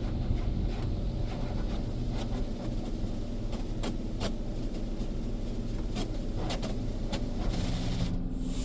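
Mark VII ChoiceWash XT in-bay automatic car wash working over the car, heard from inside the cabin: a steady low hum and spray hiss with scattered sharp taps and clicks.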